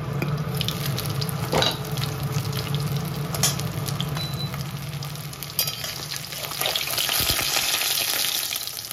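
Fish frying in hot oil in a kadai, sizzling and spitting, with a steel spatula scraping and turning the pieces. A few sharp metal clicks come through, and the sizzle grows stronger in the second half.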